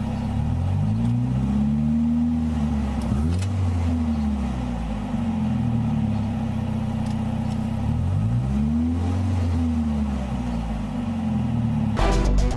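Engine of a three-wheeled Go-4 utility vehicle heard while driving, its pitch rising and falling twice as it speeds up and eases off. Music comes in near the end.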